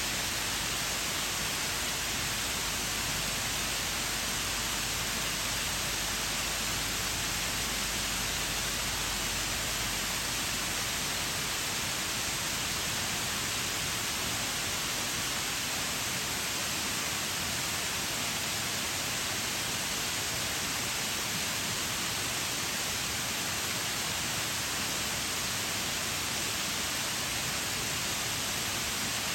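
Shiraito Falls waterfall: a steady, unbroken rush of falling water, an even hiss with no breaks or changes.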